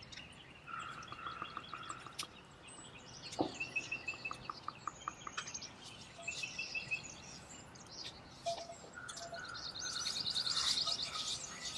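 Wild birds chirping and calling, several different calls overlapping, with a fast high trill near the end.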